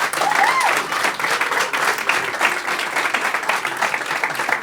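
Audience applauding with dense, steady clapping, and a brief voice or cheer from the crowd rising over it in the first second.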